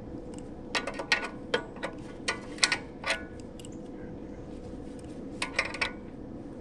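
Sharp clicks and knocks of tools and metal parts being handled, in a cluster of taps from about a second in to three seconds and another brief cluster near six seconds, over a steady low hum.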